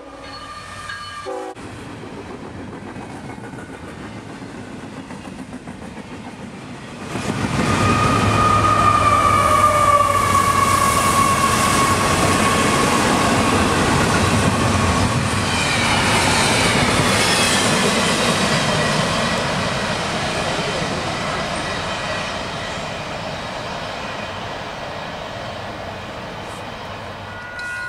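CSX double-stack intermodal freight train passing close by: the rumble and clatter of its wheels on the rails. It gets suddenly loud about seven seconds in, with a high whine drifting slowly down in pitch, then fades gradually toward the end.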